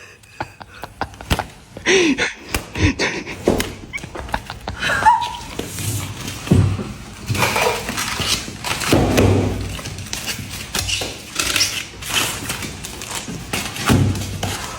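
Hammer blows on stones: an irregular run of thuds and knocks, several a second at times, with a couple of brief pitched squeaks among them.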